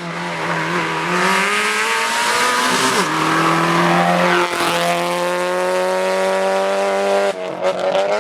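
Rally car engine at high revs, accelerating hard with a falling step in pitch at a gear change about three seconds in. It then holds a high, steady note before lifting and shifting again near the end, with a hiss of tyres and gravel under it.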